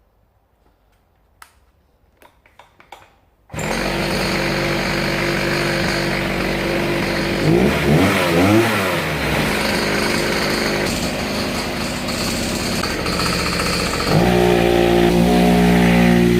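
Small two-stroke petrol engine of a motorised skateboard bursting into life about three and a half seconds in after a few faint clicks, then running and revving up and down, with a further change of pitch and level near the end.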